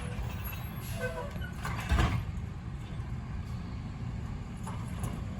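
Garbage truck engine running with a steady low rumble, and one heavy thump about two seconds in.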